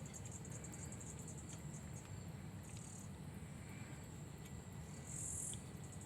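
Faint, high-pitched insect trilling, like crickets, over a low background hum, with louder trills about three seconds in and again near the end.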